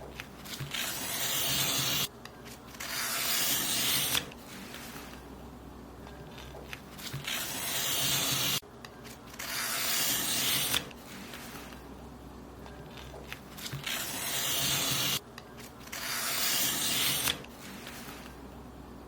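Paper being cut in repeated long strokes: about six rasping strokes, each building over one and a half to two seconds and then stopping abruptly.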